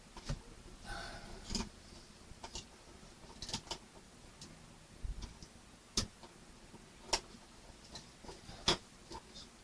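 Irregular sharp clicks and taps of small plastic kit parts and screws being handled and fitted, with the loudest clicks in the later part.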